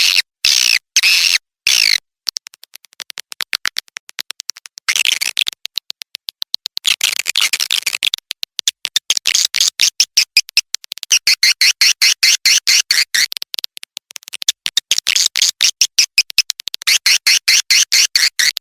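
Swiftlet lure-call recording of edible-nest swiftlets: a fast, dense run of clicks broken by repeated bursts of high twittering chirps. It is the 'suara panggil' call track played in swiftlet houses to draw the birds in, this one with chick-response calls mixed in.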